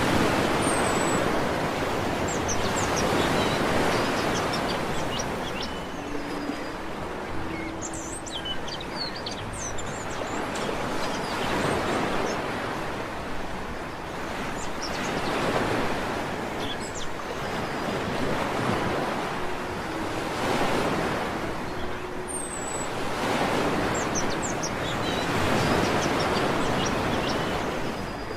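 Sea waves breaking on a beach, the surf swelling and falling back about every four seconds, with short bird chirps over it.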